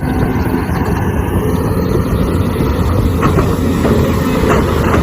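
Toy power bulldozer running: a steady mechanical rumble and rattle from its motor and running gear that starts abruptly and holds steady, with a few light clicks.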